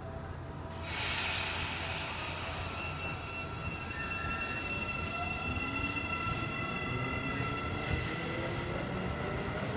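Seibu 9000-series electric commuter train running past along the platform, with the noise of the moving train rising suddenly about a second in. Steady high tones run under it, and from about halfway on a motor note climbs in pitch as the train picks up speed.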